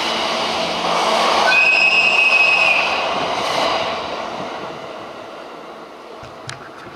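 Four E235-1000 series cars, hauled by an electric locomotive, rolling past on the rails, the wheel noise fading away as the tail end recedes. About one and a half seconds in there is a brief high-pitched steady tone lasting about a second.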